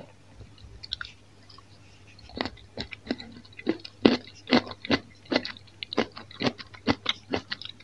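Close-up chewing of a crunchy pickled vegetable: a few faint mouth clicks, then from about two and a half seconds in, regular wet crunches about two to three a second.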